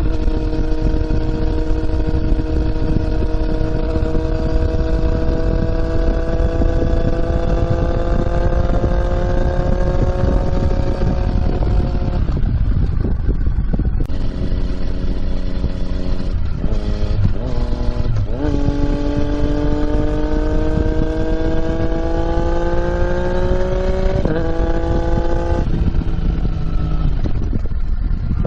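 A Yamaha MT-09's inline three-cylinder engine is heard through an Akrapovič exhaust, pulling steadily in gear with its pitch slowly rising. The throttle closes about twelve seconds in, followed by a few short throttle pulses, then another long steady pull with a gear change. It settles to a low note near the end, with wind rushing on the microphone throughout.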